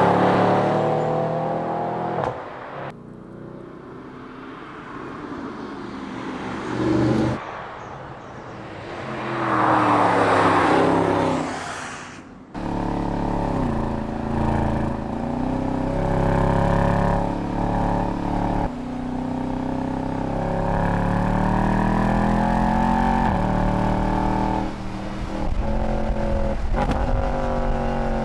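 Mercedes-Benz SLS AMG's V8 engine running and revving, heard in several abruptly cut shots. There is a loud swell around ten seconds in, like the car passing by, and later a long stretch of engine note rising and falling in pitch under acceleration.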